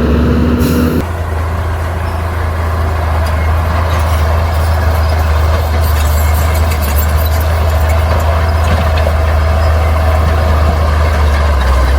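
Heavy diesel earthmoving machinery running steadily with a deep, loud rumble. A short hiss comes about a second in, as the engine note changes.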